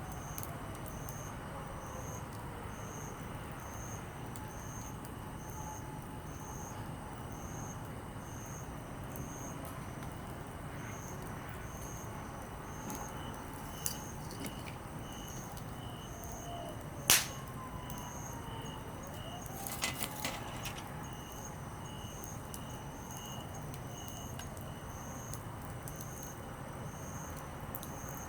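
Small wood campfire burning, with one sharp pop a little past the middle and a short cluster of smaller crackles a few seconds later. Behind it, insects chirp in a steady pulse about once a second over a low rumble, and a faint distant tone slides down in pitch now and then.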